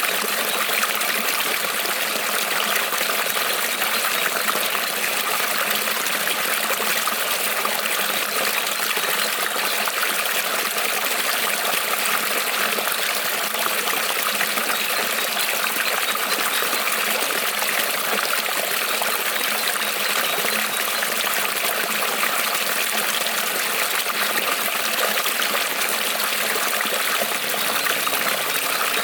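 Creek water rippling, a steady, even rush with no breaks.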